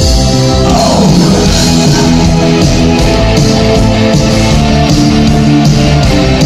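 Rock band and symphony orchestra playing live, an instrumental passage with no singing. Held chords give way about a second in to a falling sweep, after which the full band plays on with guitars and a steady beat.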